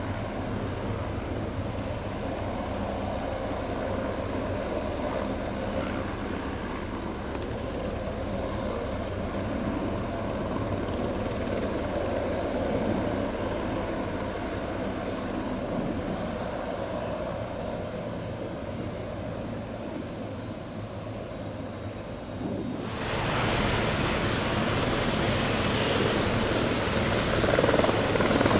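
Aerospatiale AS355F2 Ecureuil 2 twin-turbine helicopter running steadily, with a thin high turbine whine that drops a little in pitch about halfway through. About 23 s in, the sound suddenly becomes much louder and fuller, and it grows louder still near the end.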